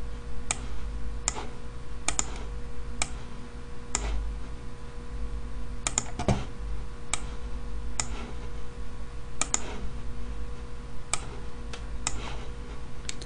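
Scattered clicks of someone working at a computer, single and paired, about one every second, over a steady low hum.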